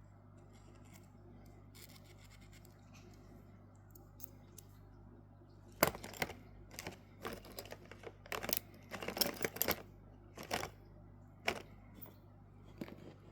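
Small hard parts of a Casio G-1800D watch being handled at close range: irregular clicks, taps and short scrapes starting about halfway, the sharpest one first. Before that there is only a faint steady low hum.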